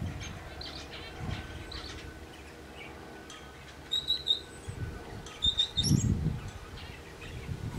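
Small songbirds chirping, with short high chirps clearest about four and five and a half seconds in. A few low muffled noises come about six seconds in.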